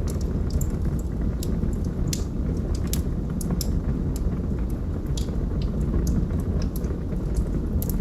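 Log fire burning, with irregular sharp crackles and pops, about one or two a second, over a steady low rumble.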